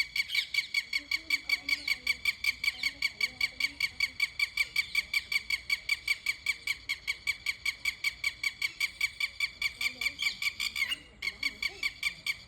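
A bird calling in a fast, even series of short, high squeaky notes, about six a second, breaking off briefly near the end.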